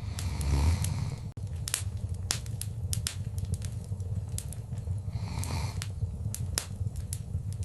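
Wood fire crackling in a fireplace: sharp pops and snaps at irregular intervals over a steady low rumble of the flames. The flame noise swells briefly twice, about half a second in and again about five seconds in.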